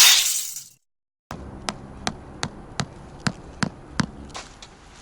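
A loud crash fading out, a moment of dead silence, then a run of about seven sharp, evenly spaced knocks, roughly three a second, that stop about four seconds in.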